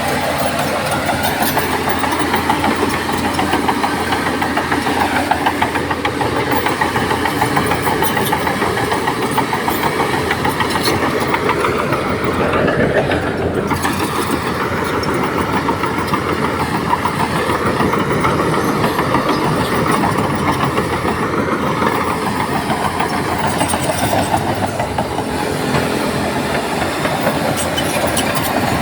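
Heavy diesel engine of earthmoving machinery running hard, a steady churning drone with a fast pulse. Its tone shifts briefly about halfway through.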